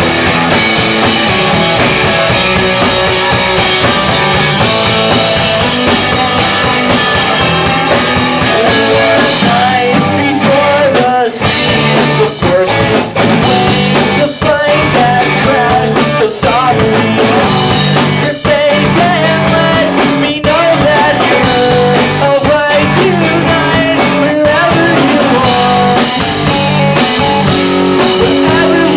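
Live rock band playing loudly, recorded through a camcorder microphone.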